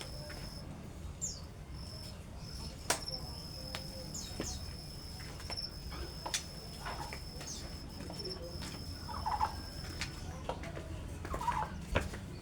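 A cricket trilling steadily at a high pitch, breaking off briefly now and then, over a low hum. Between the trills come a few sharp clicks and short bird calls, some dropping quickly in pitch.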